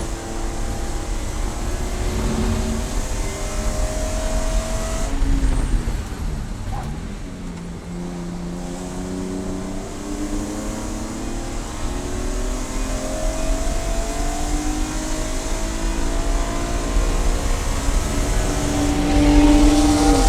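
Race car engine under hard acceleration, its pitch climbing in steps through the gears. It eases off and drops in pitch about six seconds in, then pulls up through the gears again toward the end.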